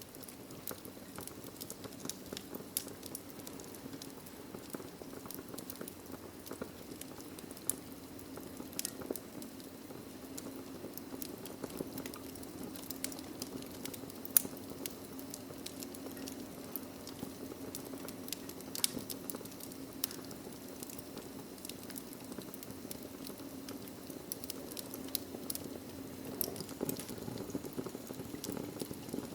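Wood fire burning in a fireplace: a steady low hiss and rumble of the flames with irregular crackles and pops from the burning logs, the loudest pop about 14 seconds in.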